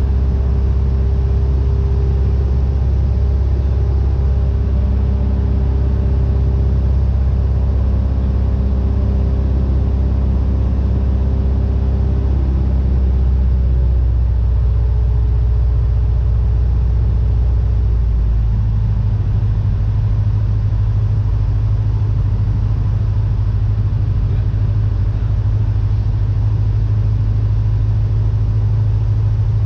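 Cessna 172N's four-cylinder Lycoming engine and propeller running steadily; the pitch of the drone shifts about halfway through.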